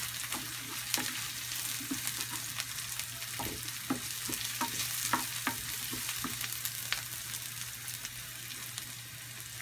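Chopped garlic and onion sizzling in oil in a nonstick frying pan, stirred with a wooden spoon that gives frequent light scrapes and taps against the pan. A steady low hum runs underneath.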